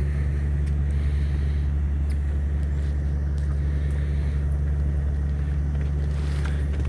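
Fishing boat's engine running steadily: a constant low drone with no change in pitch or level.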